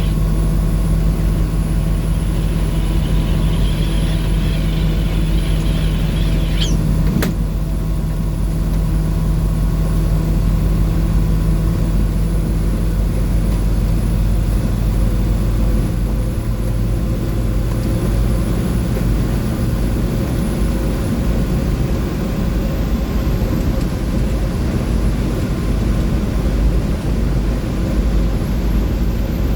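A 2004 Blue Bird school bus under way at steady highway speed, its Navistar DT466E inline-six diesel running with a steady low drone over road and tyre noise. A single sharp click comes about seven seconds in.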